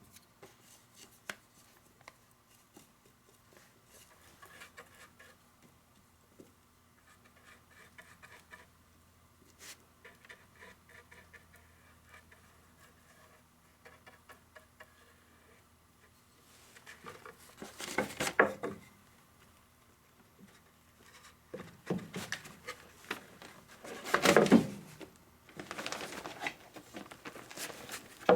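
Workbench handling sounds: light scattered ticks and rustles, then several louder rustling, scraping bursts in the second half.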